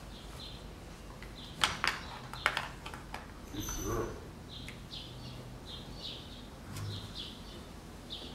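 Small birds chirping over and over in short, high chirps, with three or four sharp clicks close together about two seconds in, the loudest sounds.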